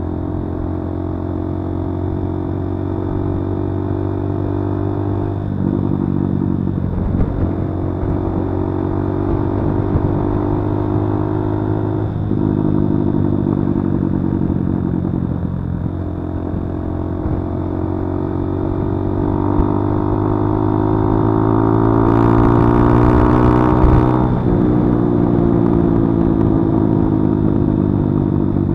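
Kawasaki D-Tracker 150's single-cylinder four-stroke engine running under way on the road. Its note breaks and shifts several times, climbs steadily for several seconds in the second half and drops abruptly near the end, as the rider accelerates and changes gear.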